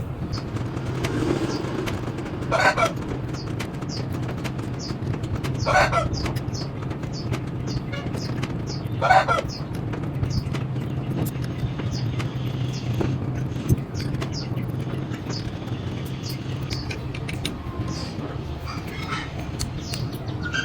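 Three short bird calls, about three seconds apart, over a steady low hum, with faint high chirping throughout.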